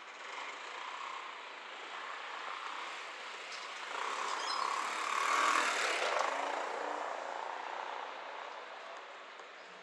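A motor vehicle passing close by: a rushing noise that swells to a peak about five to six seconds in, then fades away.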